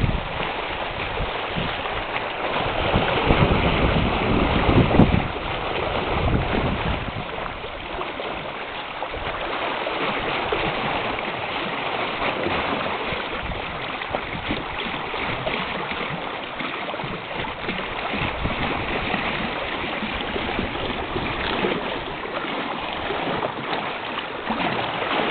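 Sailing yacht under sail on a broad reach, its hull rushing and splashing through the sea, with wind buffeting the microphone in stronger surges during the first five seconds.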